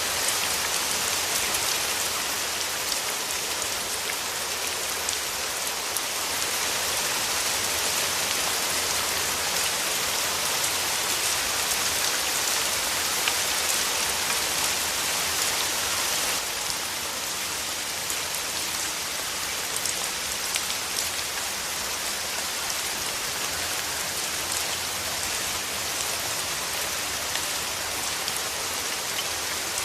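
Steady rain falling on surfaces: a dense, even hiss with many fine drop ticks through it. It gets slightly quieter about halfway through.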